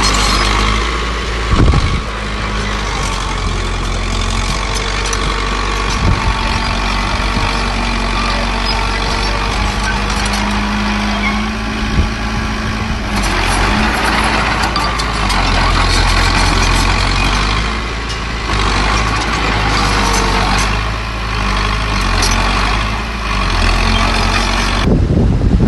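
Diesel engines of heavy earthmoving machinery running steadily, with a few sharp knocks.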